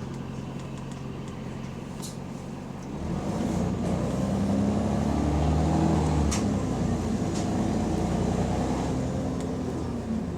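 Diesel engine of a double-decker bus with an exhaust leak, idling steadily, then revving up and pulling away about three seconds in, its pitch rising as it accelerates. A few sharp clicks or rattles sound over it.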